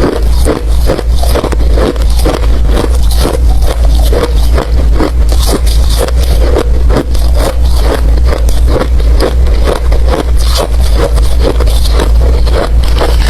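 Close-up crunching of ice being bitten and chewed, a rapid, uneven run of loud crunches a few times a second.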